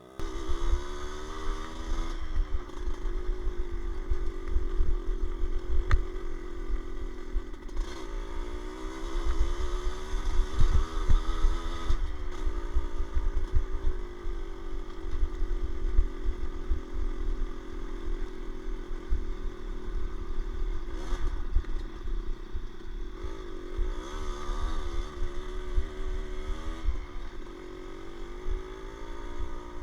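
A small off-road motorcycle engine running under way, its revs rising and falling again and again, over heavy low rumble.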